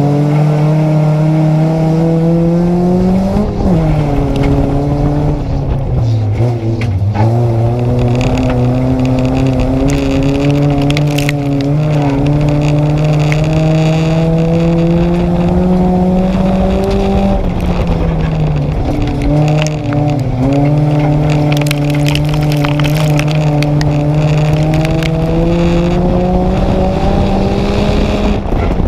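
Nissan Micra race car's engine heard from inside the car while racing: the engine note climbs slowly for long stretches, drops sharply about five times, then climbs again.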